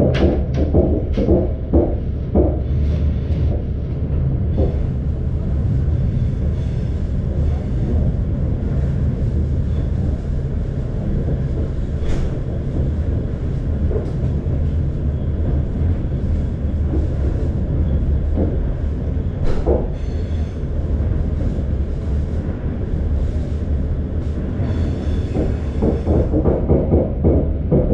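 Passenger train running at speed, heard from inside the coach: a steady low rumble from the wheels and running gear. Runs of sharp wheel clicks over rail joints come near the start and again near the end, with a couple of single knocks in between.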